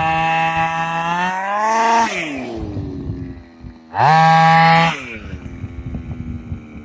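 HPI Baja 5B's stock 23cc two-stroke gas engine revving in two bursts, a longer one at the start and a shorter one about four seconds in, each dropping back to a lower idle.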